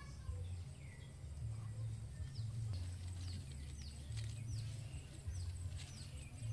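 A bird calling in a quick series of short chirps that fall in pitch, about three a second, starting a couple of seconds in. A steady low rumble runs underneath.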